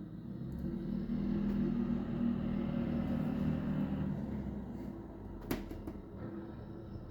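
Snow removal tractor's engine running steadily, growing louder about a second in and easing off after about four and a half seconds, with one sharp knock about five and a half seconds in.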